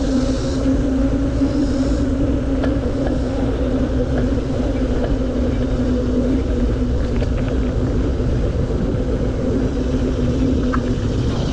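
Steady low rumble of wind on the microphone from a moving bicycle, with a steady hum from the tyres and drivetrain rolling on pavement and a few faint ticks.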